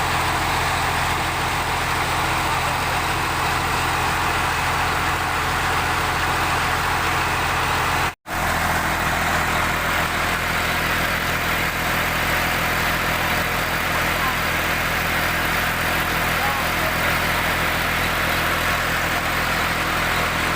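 Al Ghazi 65 hp tractor's diesel engine idling steadily. The sound cuts out for an instant about eight seconds in, then the same steady idle carries on.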